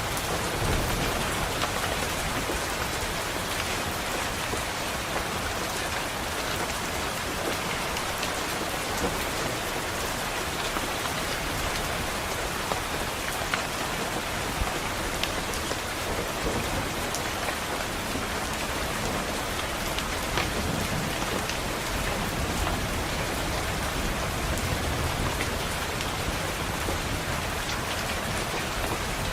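Steady rain pattering on a window, with scattered sharp drop ticks. Low rumbles of distant thunder swell up now and then.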